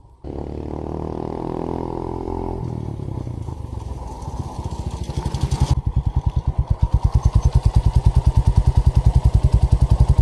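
An engine running: a steady low drone at first, then from about halfway a fast, even pulsing that grows louder.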